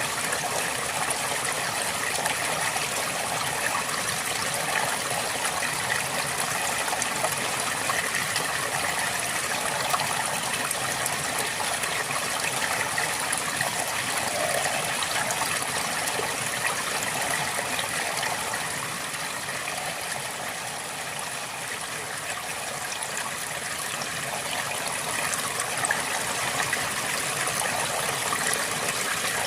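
River water flowing and babbling in a steady stream, a little softer for a few seconds past the middle.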